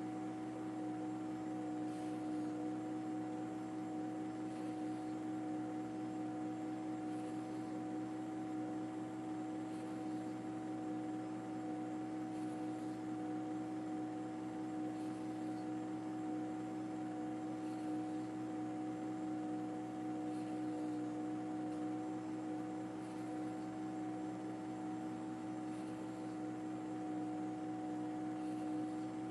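A steady machine drone: several held tones over a constant hiss, unchanging throughout.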